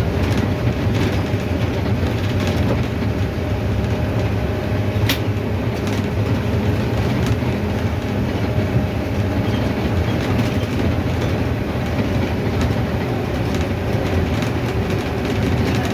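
Mercedes-Benz OF-1519 city bus on the move, its front-mounted diesel engine running steadily under road rumble, with loose fittings and body panels rattling continuously. One sharper click comes about five seconds in.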